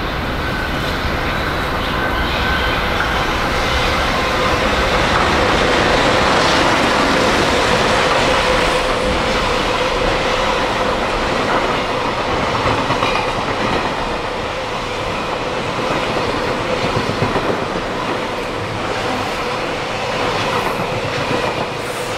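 A JR Freight EF210 electric locomotive and its long train of container wagons running past: wheels clacking over the rail joints, with a steady whine running through, loudest about six to eight seconds in.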